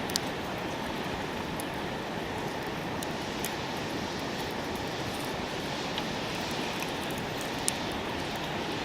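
Wood campfire burning: a steady hiss with scattered sharp crackles and pops, the sharpest about three-quarters of the way through.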